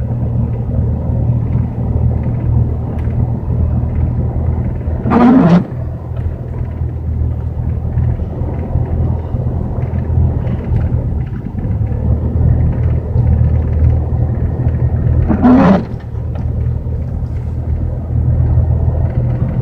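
Pickup truck engine running under load as it climbs a snow-covered hill, a steady low rumble heard from inside the cab. Twice, about ten seconds apart, a short loud pitched sound that falls at the end cuts across it.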